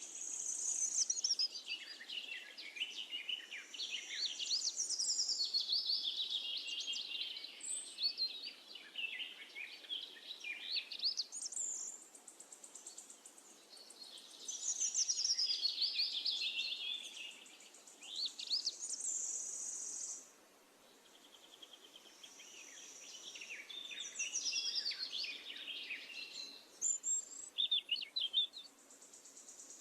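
Songbirds singing, a busy chorus of quick chirps and descending trills, with a steady high buzz that comes and goes several times.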